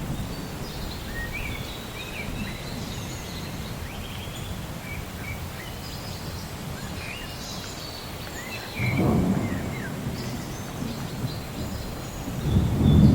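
Rainforest ambience: many birds chirping and warbling in short calls, over a low rumble of thunder that swells twice, once about two-thirds of the way in and again near the end.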